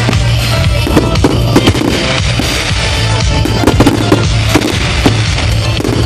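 Fireworks going off in many irregular sharp bangs and crackles over loud pop music with a steady bass line.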